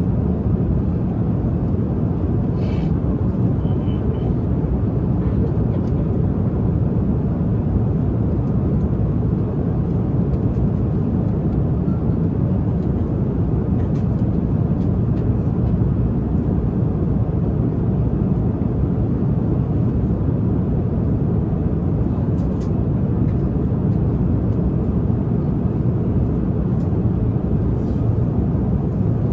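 Steady low rumble of an airliner cabin in flight, the even drone of engines and airflow, with a few faint clicks.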